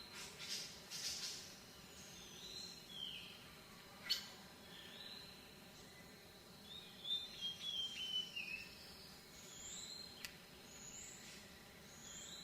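Birds chirping: many short, high, curved calls, repeating about once a second near the end. A sharp click about four seconds in, and a fainter one near ten seconds.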